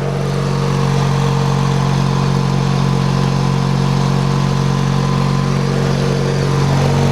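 Horizontally opposed twin-cylinder engine of an MTD-built lawn tractor running at a steady speed with its hood fitted, quiet for an opposed twin.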